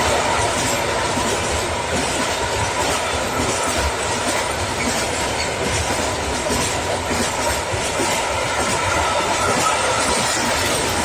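Freight train wagons rolling past at close range, a steady clatter of wheels over the rails, with a thin steady whine throughout.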